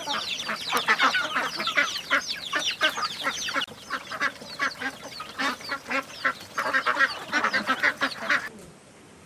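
A flock of farm poultry calling: many short, overlapping calls in quick succession. They stop suddenly near the end.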